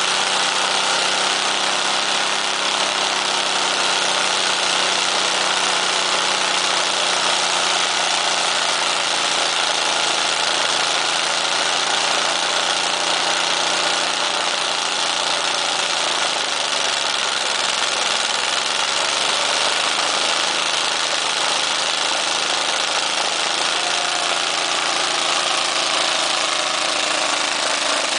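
Demolition derby car engine running steadily, being run on purpose until it blows; its pitch sags briefly about two-thirds of the way in, then recovers.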